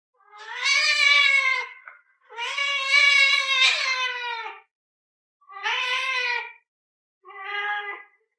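A dog howling: four long drawn-out calls, each bending up and then down a little in pitch. The first two are the longest, and the last two are shorter and quieter.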